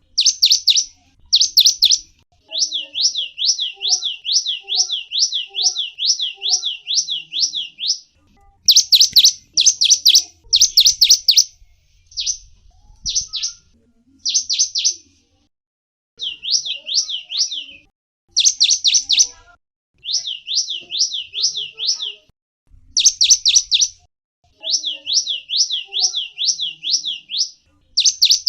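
A small songbird known in Indonesia as the gelatik wingko calling in fast chirping phrases: runs of high, quick sweeping notes, about six a second, each run lasting one to three seconds with brief pauses between.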